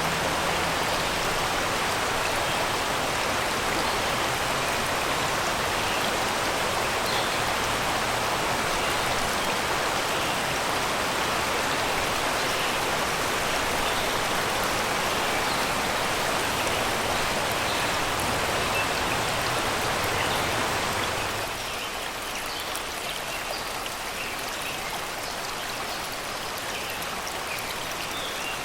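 Shallow river water rushing and babbling over rocks and stones in a steady wash. About 21 seconds in it drops to a quieter, lighter flow, with faint bird chirps over it.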